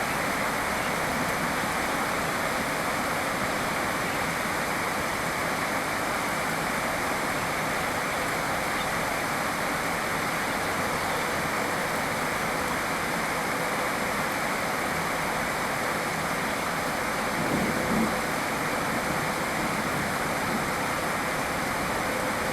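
Steady rain, an even dense hiss with no break, and a brief low swell near the end.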